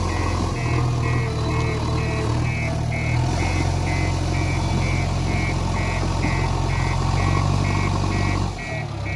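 Heavy diesel engine running steadily while a reversing alarm beeps about twice a second. The engine note drops about eight and a half seconds in as the beeping carries on.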